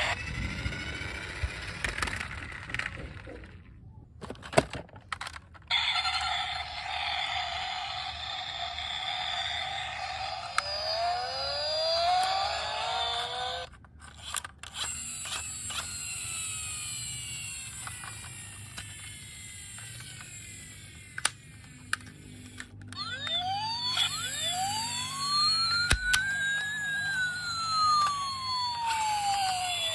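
Toy vehicles' electronic sirens wailing, several rising and falling tones overlapping, with scattered sharp clicks and knocks of the toys being handled.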